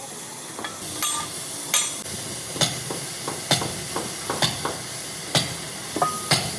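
Irregular metallic clinks and knocks, steel being tapped or handled, some strikes ringing briefly, over a steady hiss.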